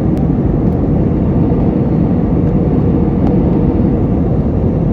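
Steady rumble of engine and airflow noise inside the cabin of an Airbus A321 airliner in flight, deep and unchanging.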